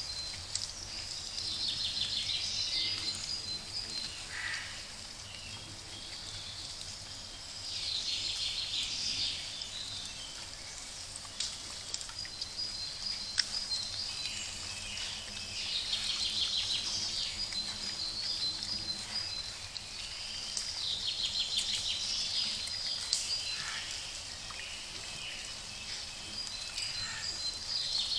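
Songbirds singing in woodland, one repeating a short trilled phrase about every six or seven seconds, over a steady background hiss.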